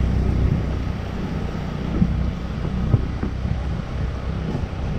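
Scooter running while being ridden, with wind buffeting the microphone. Two brief knocks come about two and three seconds in.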